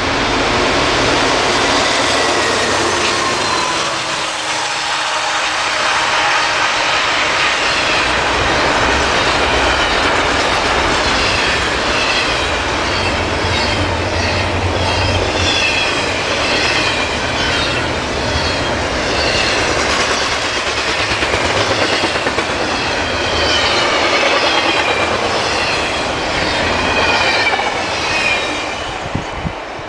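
Norfolk Southern double-stack intermodal freight train passing at speed: a steady loud rush of the locomotives and container cars going by, with a regular rhythm of wheel noise from about twelve seconds in. The sound falls away near the end as the train clears.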